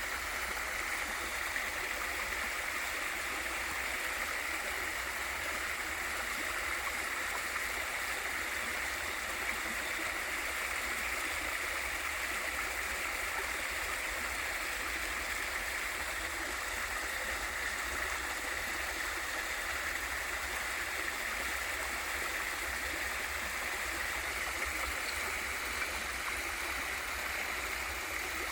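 Waterfall and valley stream water rushing in a steady, even flow.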